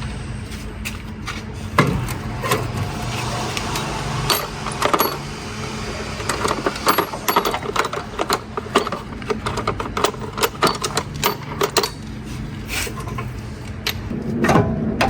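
Irregular light metallic clinks and taps, as of tools and metal parts being handled, over a low background hum.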